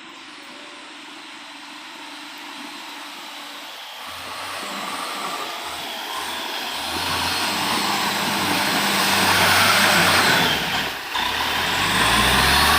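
A motor vehicle's engine running and growing steadily louder, with a brief drop in level about eleven seconds in.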